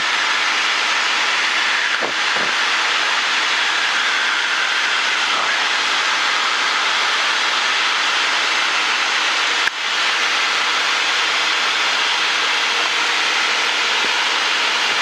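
Inside the cabin of a Cessna 172M in cruise: the four-cylinder Lycoming O-320 engine and propeller drone steadily under a wash of airflow hiss. There is a brief dip in the noise about ten seconds in.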